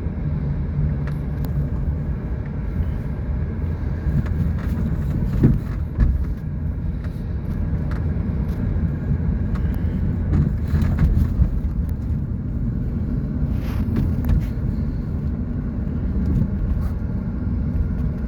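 Car engine and tyre-and-road rumble heard from inside the cabin while driving a winding mountain road, with two short thumps about five and a half and six seconds in.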